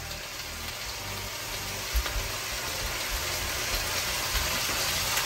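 Food frying in a hot pan: a steady sizzle that grows slowly louder, with a couple of low bumps about two seconds in.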